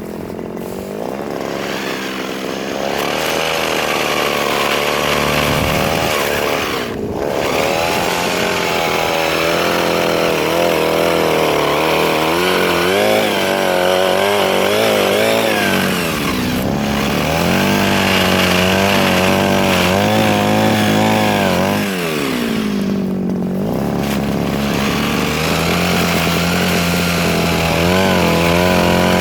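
Mini chainsaw running and cutting soft wood, its engine speed wavering up and down under load. The pitch sags and recovers three times: about a quarter of the way in, near the middle, and about three-quarters through.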